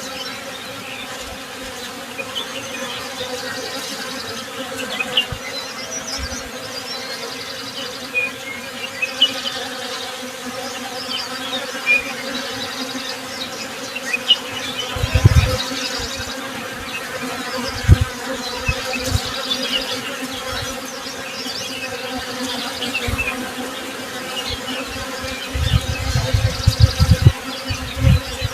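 Honey bees buzzing in a steady, dense hum, with small birds chirping here and there above it. A few short low rumbles break in, the longest near the end.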